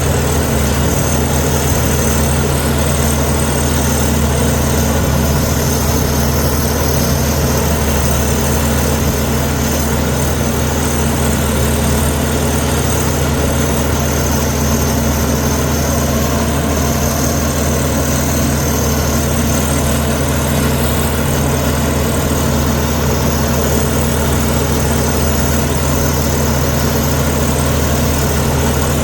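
Heavy diesel engine of a Komatsu D61EX bulldozer running steadily at an even pitch.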